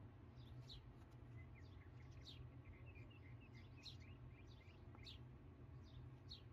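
Faint birds chirping: short falling chirps repeating about once or twice a second, with a quick run of softer chirps in the first few seconds, over a low steady hum.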